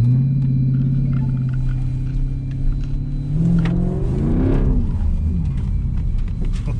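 2012 Jeep Grand Cherokee SRT8's 6.4-litre V8 running with a deep rumble at a steady pitch. About three and a half seconds in, its pitch rises briefly and falls back, then it settles at a lower, steady pitch.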